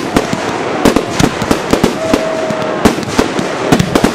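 Fireworks display: aerial shells bursting in quick succession, several loud bangs a second over a continuous crackle, with a brief steady whistle about two seconds in.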